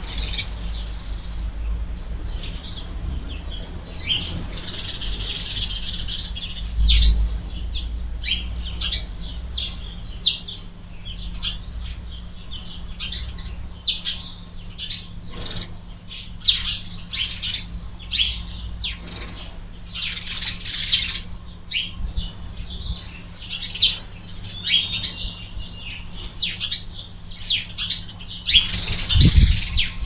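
Small birds chirping off and on, many short high chirps in quick succession, over a low rumble that swells briefly about seven seconds in and again near the end.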